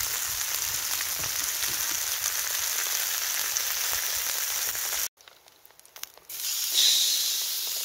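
Bacon and onions frying in a pan over a campfire: a steady sizzle with faint crackles. About five seconds in it cuts out for just over a second, then the sizzle returns a little louder.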